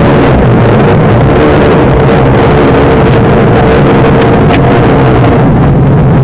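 1997 Jeep Grand Cherokee's 4.0-litre straight-six running, loud and steady, with a steady droning tone over the engine noise: the odd noise its owner calls weird.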